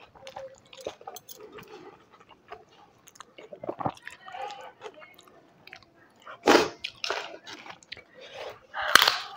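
Close-up sounds of a person eating: chewing with small wet mouth clicks throughout, and two loud crunchy bites, about six and a half seconds in and again near the end, typical of biting into crisp papad or aloo chips.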